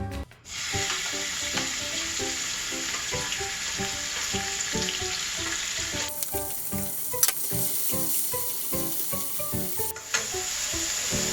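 Hot oil sizzling as ingredients are stir-fried in a pan. The sizzle drops away about six seconds in and comes back near the end. Light background music plays underneath.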